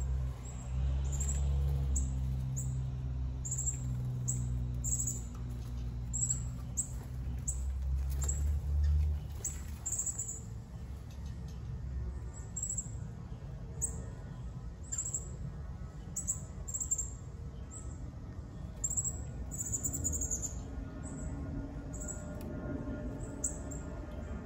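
Small songbirds chirping: short high chirps repeated every second or so. A low steady hum runs underneath for the first nine seconds or so, then stops.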